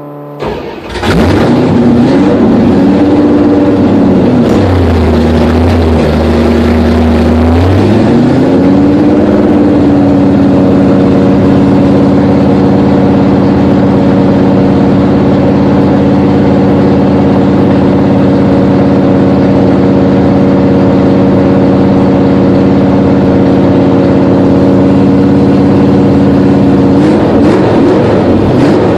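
1966 Valiant V100's engine starting about a second in, revving up and down for several seconds, then held at a steady raised speed for a break-in run of the freshly built engine, its speed changing again near the end.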